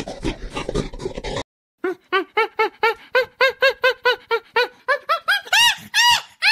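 A crackling noise breaks off, then hamadryas baboons call in a fast run of short, arching calls, about four a second, that turn into a few longer, higher calls near the end.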